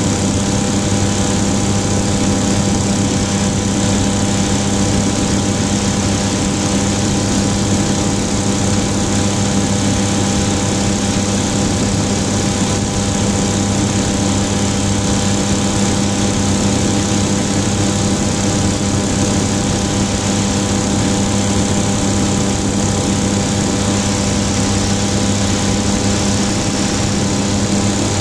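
Flightstar II light sport aircraft's engine and propeller running at a steady speed, the pitch holding constant throughout.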